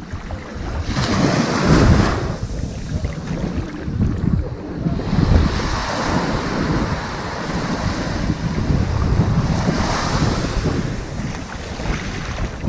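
Ocean waves washing up on a sandy beach, the surf swelling in three surges about one and a half, six and ten seconds in.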